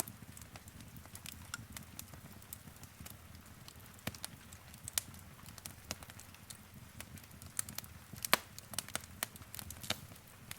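Wood fire crackling in a fireplace: irregular sharp pops and snaps over a soft low rumble of the flames, the loudest pop a little after eight seconds in.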